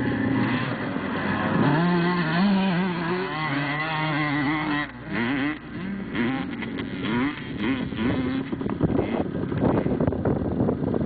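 Several motocross bikes' two-stroke engines revving, their pitch rising and falling as they race over the track, with a brief dip about five seconds in. The recording sounds thin and muffled, like old tape.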